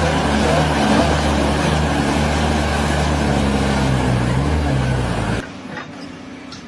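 An engine running steadily and loudly, with a low hum. It cuts off abruptly about five and a half seconds in, leaving a much quieter background noise.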